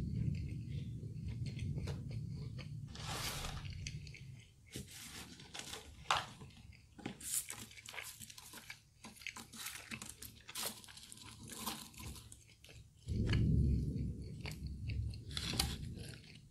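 Close-miked chewing and crunching of crispy fried food, with wet mouth sounds. In the middle comes a run of short light clicks and rustles as fries are handled, then a second spell of heavy chewing near the end.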